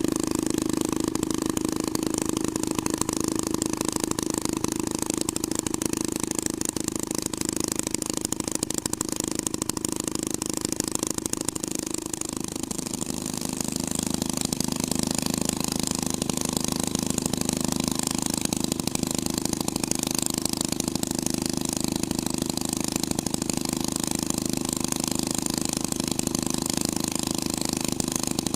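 Hot rod twin-engine setup idling steadily. About twelve seconds in the engine note dips and shifts slightly, then settles back to an even idle.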